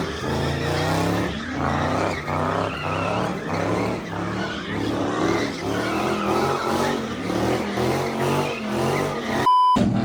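A car sliding at a street takeover: tires squealing while the engine revs hard, its note surging up and down again and again. A short steady beep cuts in near the end.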